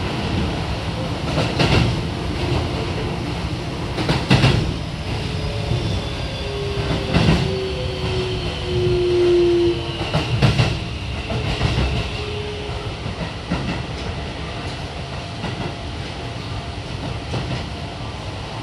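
Keio 7000 series train's Hitachi IGBT VVVF inverter whining with a slowly falling pitch as the train slows, over the running rumble and the wheels knocking on rail joints several times.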